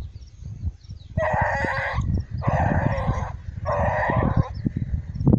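Scent hounds on the trail baying three times, each bay long and drawn out, with wind buffeting the microphone in low rumbles and knocks.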